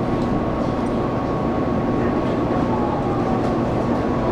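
Running noise inside a Taiwan Railway local train carriage: a steady rumble of wheels on the track with a thin, steady tone above it.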